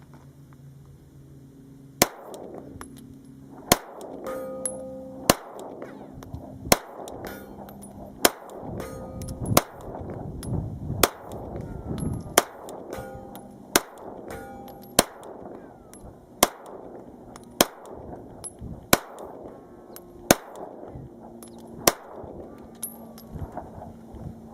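Glock 19 9mm pistol firing a slow, steady string of about fifteen shots, one every second and a half or so.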